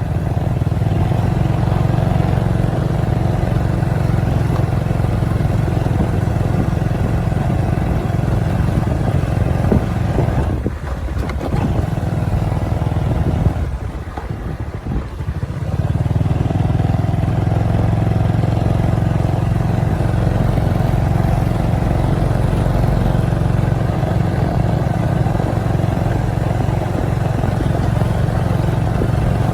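Motorcycle engine running steadily while riding. It eases off twice around the middle, briefly and then for a couple of seconds, before pulling steadily again.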